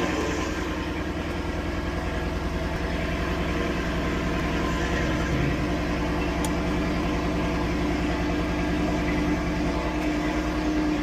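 A 2016 Ford Mustang GT's 5.0-litre V8 idling steadily.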